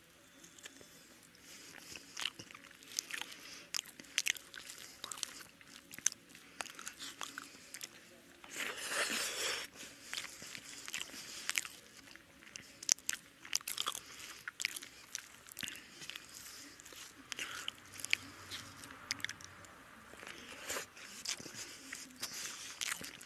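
A person chewing a mouthful of rice and fried food, eaten by hand: many sharp wet mouth clicks and crunching bites, with one longer, louder burst of noise about nine seconds in.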